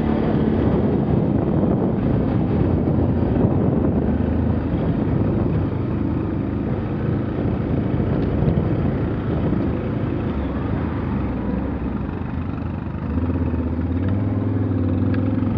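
Quad bike (ATV) engine running under varying load, its revs shifting up and down, dipping briefly near the end and then settling into a steadier note.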